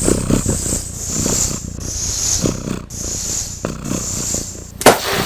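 A cat making a low, rumbling sound that swells and fades about every second. A sharp click comes near the end.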